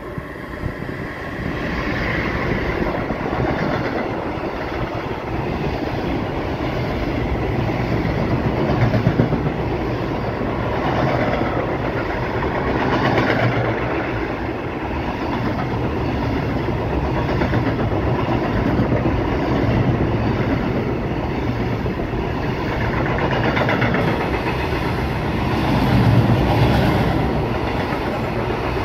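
Freight train of sliding-wall wagons rolling past at close range: a steady noise of wheels on rails that swells and eases as the wagons go by.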